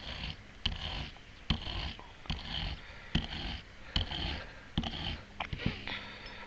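Hand scrubbing or wiping strokes cleaning crud off a hydraulic ram part, a steady back-and-forth of short scratchy strokes, about one every 0.8 seconds.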